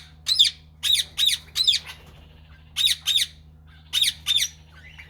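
Indian ringneck parakeets screeching: short, sharp calls that drop in pitch, coming in quick runs of two to four, about eight in all.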